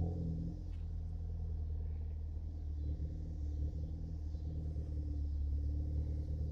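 2014 Ford Focus ST's turbocharged 2.0-litre four-cylinder running through a catless downpipe and Cobb cat-back exhaust, settling at the start from a rev into a steady low idle rumble.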